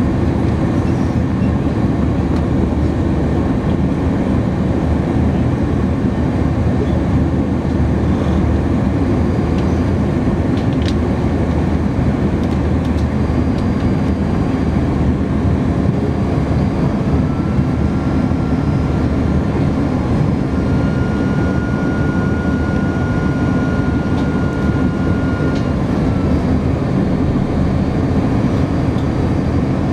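Steady cabin roar of an Airbus A310-300 airliner in flight on approach, the engine and airflow noise dense and low. A little past halfway a faint whine comes in, steps up slightly in pitch and fades out some nine seconds later.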